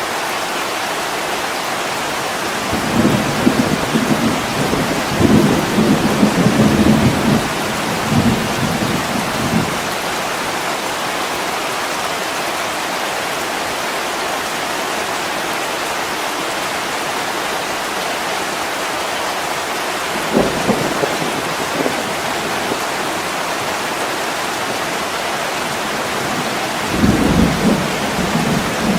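Heavy rain pouring steadily against a window glass, with rolls of low thunder rumbling for several seconds from about three seconds in, briefly again around twenty seconds, and once more near the end.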